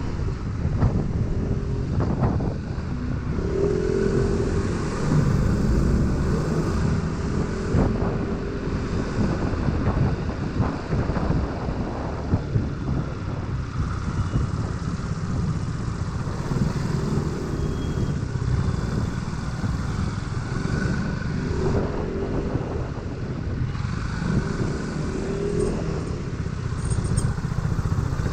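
Scooter engine running while riding, its pitch rising and falling now and then with the throttle, over a constant low rumble of wind and road noise.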